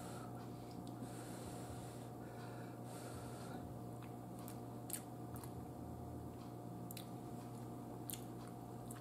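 Quiet close-up chewing of a mouthful of baked potato, with a few faint short clicks over a steady low hum.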